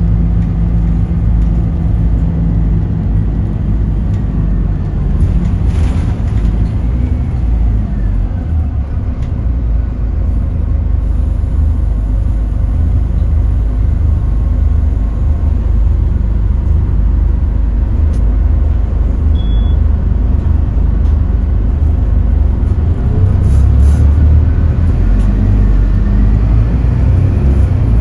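Scania K280UB city bus's five-cylinder diesel engine running on the move with a steady low rumble, its note rising and falling, louder near the end.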